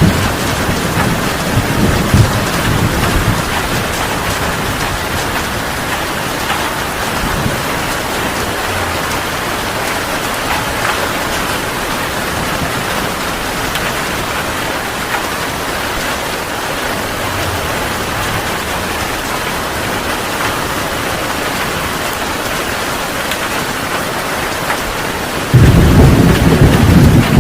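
Heavy rain pouring steadily. A low rumble of thunder dies away in the first two or three seconds, and a sudden loud rumble of thunder breaks in near the end.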